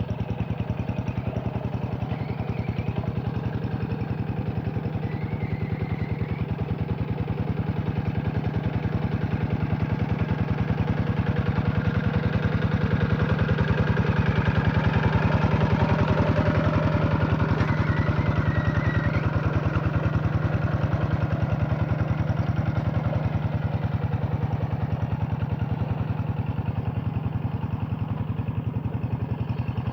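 Single-cylinder diesel engine of a hand tractor running steadily, with its rapid firing pulse. It grows a little louder about halfway through, then settles back.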